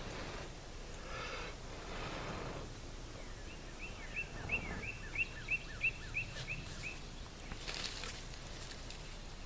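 A bird calling in the background, a quick run of about a dozen short, sharp repeated notes, about three a second, over a light outdoor hiss with some rustling.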